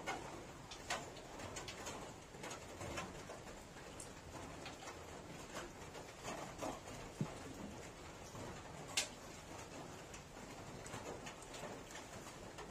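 Eating sounds from a man eating rice and fried fish by hand: chewing and lip smacks with scattered soft clicks, one sharper click about nine seconds in.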